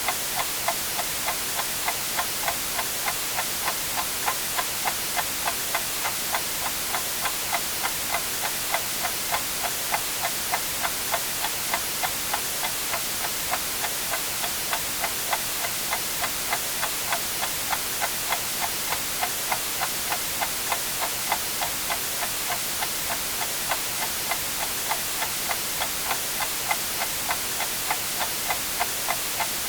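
Clock ticking steadily, about two ticks a second, over constant white noise.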